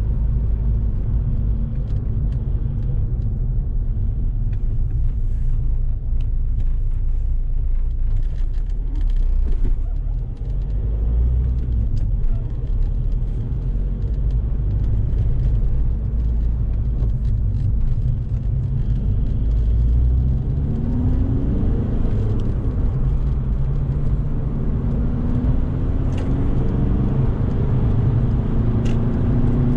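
A 2006 VW Golf Mk5's 2.0 TDI PD four-cylinder diesel engine and the car's road noise, with a steady low rumble at gentle speed. From about twenty seconds in the engine pulls harder, its note rising in pitch in steps as it accelerates.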